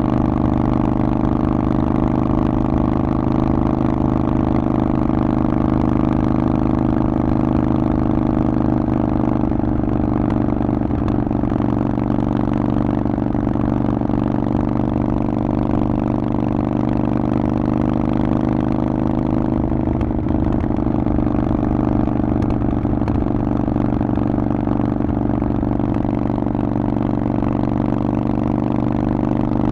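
Harley-Davidson Forty-Eight's air-cooled 1200 cc V-twin running through a Vance & Hines aftermarket exhaust, holding a steady engine speed with no change in pitch.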